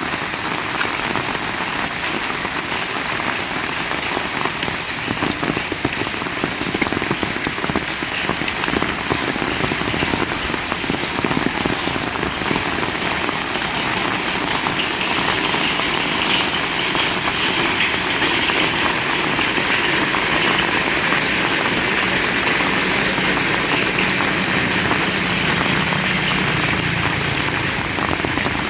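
Heavy rain falling steadily in a dense, even patter. A low engine hum comes in faintly under the rain over the last several seconds.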